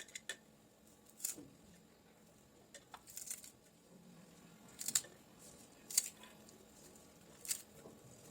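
Faint, scattered small clicks and rustles of objects being handled, about seven short sharp sounds spaced roughly a second apart.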